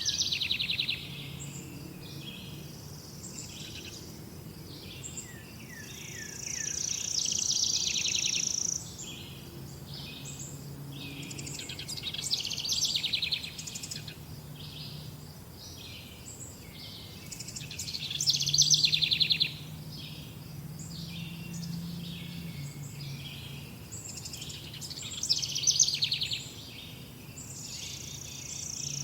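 Several wild songbirds chirping and singing at once, with short calls and trills throughout and louder song phrases every few seconds. A faint steady low hum sits underneath.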